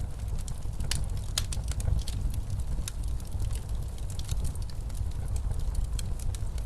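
Wood fire crackling in a fireplace, with frequent irregular sharp pops, over a steady low rumble of blizzard wind.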